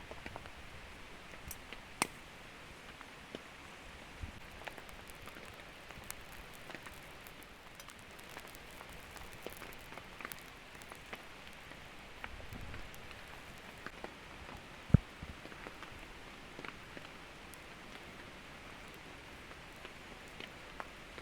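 Steady heavy rain pattering, with scattered sharp ticks of drops and one louder knock about 15 seconds in.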